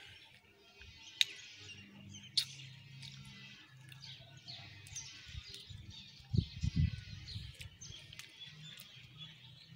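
Small birds chirping over and over, many short twittering calls overlapping, over a faint low hum. Two sharp clicks about a second and two and a half seconds in, and a few low thuds a little past halfway.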